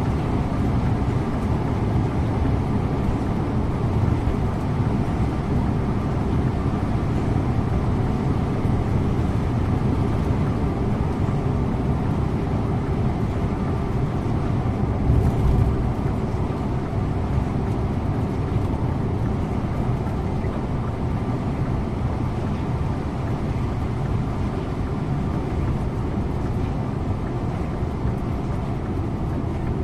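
Scania InterLink bus driving along steadily, heard from the driver's seat: a constant engine and road rumble, with a brief louder bump about halfway through.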